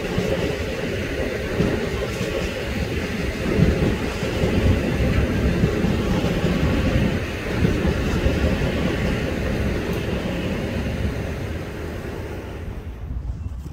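Metro-North M8 electric multiple-unit train running past on the tracks, its wheels and motors making a steady rumble. The sound fades near the end as the last car goes by.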